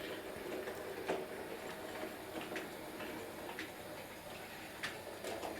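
Bachmann Class 03 model diesel shunter running slowly on model railway track: a faint steady motor whirr with a few sharp clicks as its wheels pass rail joints and points.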